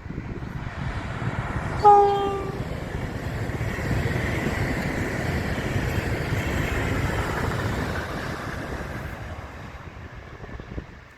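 A train passes with one short horn blast about two seconds in, the horn dipping slightly in pitch as it ends. The rumble and rail noise of the passing train hold for several seconds, then fade away near the end.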